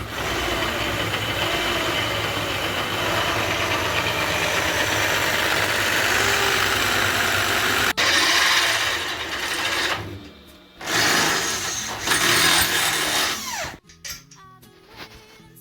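Power tool running on metal: a steady run of about ten seconds, then two short bursts, stopping sharply near the end.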